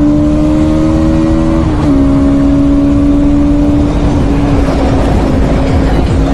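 Bajaj Pulsar NS200's single-cylinder engine running hard at highway speed, its pitch climbing slightly, then breaking and dropping a little about two seconds in before holding steady and slowly easing. Wind rush on the microphone grows in the second half.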